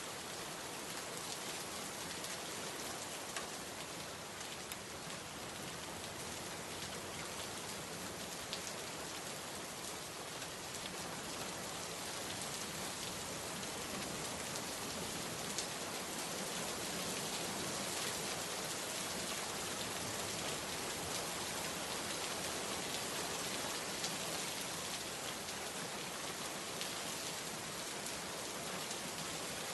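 Steady rainfall: a dense hiss of rain hitting surfaces, scattered with many individual drop ticks and patters, holding an even level throughout.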